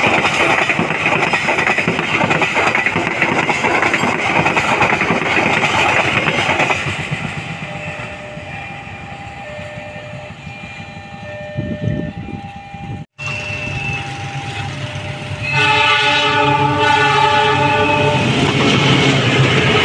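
A train running past with heavy rail noise that fades after about seven seconds. After a break, a train horn sounds loudly for a couple of seconds over the rumble of a train.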